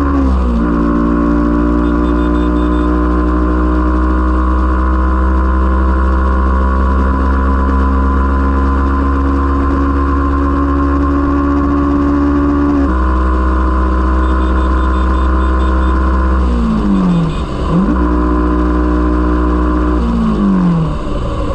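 Yamaha R15 V4's single-cylinder 155 cc engine running through its exhaust, held at steady revs for long stretches. The pitch drops sharply a little past halfway, then falls away and climbs back around three-quarters through, and falls again near the end.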